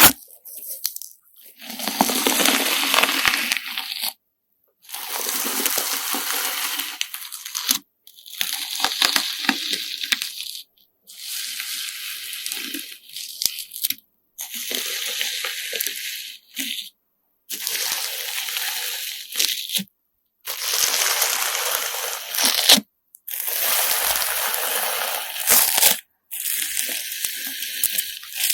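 Hands squeezing and pressing a homemade colored-sand slime, making a crunchy, grainy squelch. The sound comes in about nine short takes of two to three seconds each, every one ending in a brief silence.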